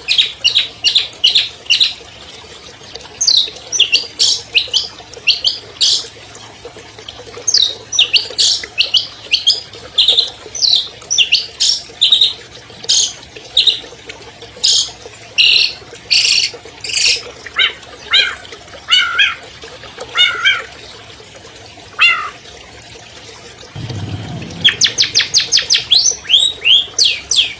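Long-tailed shrike (cendet) singing: bursts of rapid, sharp, high chattering notes with short pauses between phrases, breaking into a fast run of repeated notes near the end.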